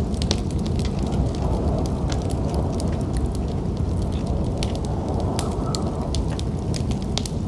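Wood fire crackling, with sharp irregular pops over a steady low rumble.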